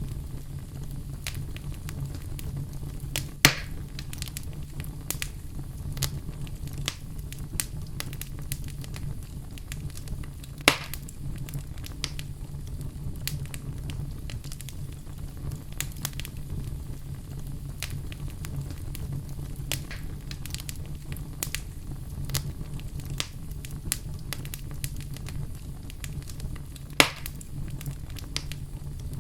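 Wood fire burning in a fireplace: a steady low rumble of flame with constant small crackles and three loud pops of burning wood, a few seconds in, about a third of the way through, and near the end.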